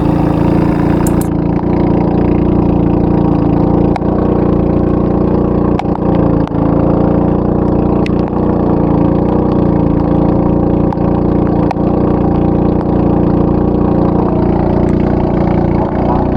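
Fishing boat's engine running at a steady speed, a constant drone with a few light knocks.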